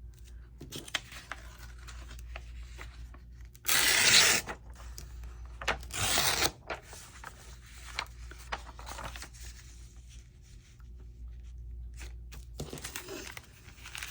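Paper being handled and rustled, with two short, loud rasping strokes of paper about four and six seconds in.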